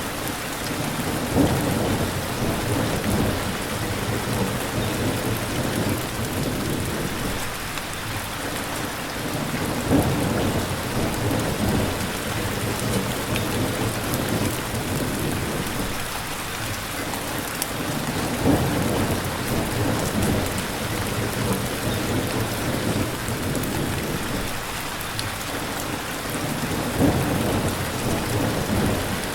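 Steady heavy rain hissing, with low rumbling swells rising and fading about every eight or nine seconds.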